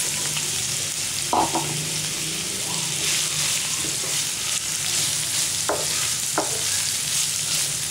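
Chopped onions, green chillies and curry leaves sizzling in hot oil in a non-stick pan, stirred with a wooden spatula that scrapes the pan a few times. The onions have just gone in and are starting to sauté.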